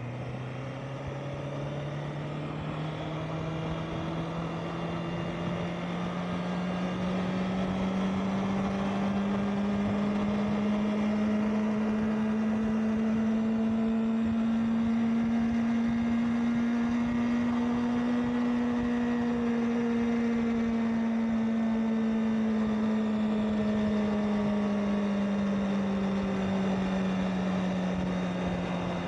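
Honda CBR650R's inline-four engine running under way. Its pitch jumps up about a second in, then climbs slowly as the bike gathers speed, and eases down again near the end.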